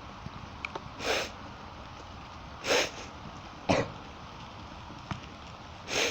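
Steady hiss of heavy rain with faint scattered ticks, broken four times by short, loud, noisy bursts about one to two seconds apart.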